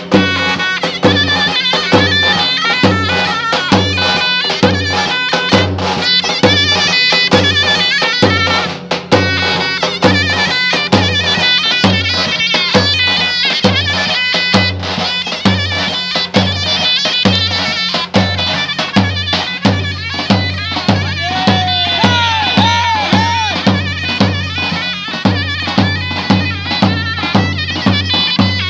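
Turkish folk dance music: a shrill double-reed zurna playing an ornamented melody over a steady davul bass drum beat.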